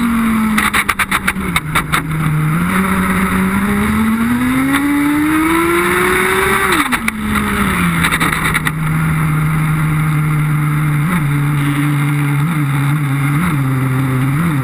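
Small nitro engine of a Redcat Racing Lightning STR radio-controlled car, heard from a camera mounted on the car while the new engine is being broken in. The pitch drops, climbs slowly for several seconds, falls back, then holds low with four short throttle blips near the end, and there are quick clusters of rapid clicks in the first two seconds and again about seven to eight seconds in.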